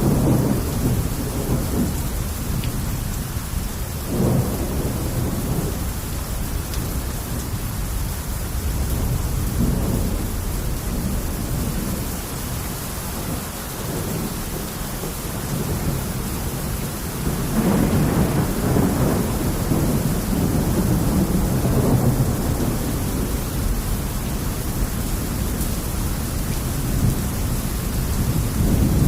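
Steady rain with rolling thunder: a short rumble about four seconds in and a longer, louder rumble from about seventeen to twenty-two seconds.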